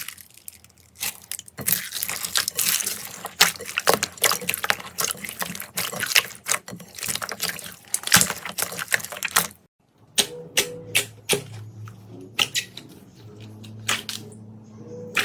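Slime being squeezed and pressed by hand, giving a dense run of wet clicks and crackling pops. After a short break about ten seconds in, the pops come more sparsely.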